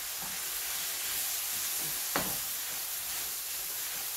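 Chicken stir fry sizzling and frying in a hot pan, with a single sharp knock about two seconds in.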